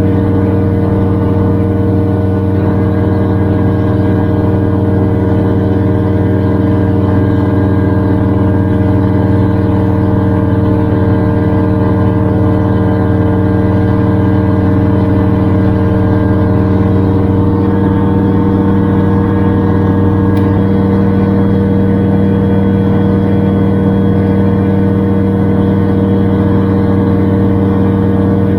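Gyrocopter engine running steadily at a constant pitch in flight, heard loud from on board.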